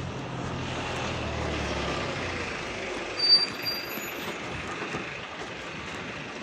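A motor vehicle passes on the street: a low engine hum and road noise swell and then fade. A brief high-pitched squeak comes about three seconds in.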